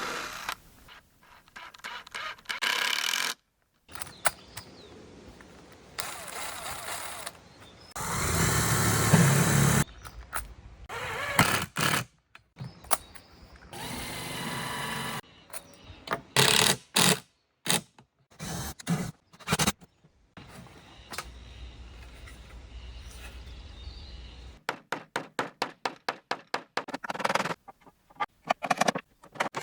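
Woodworking sounds cut together in short pieces: a power drill running in bursts, with knocks and clicks between them, and near the end a quick run of evenly spaced sharp strokes.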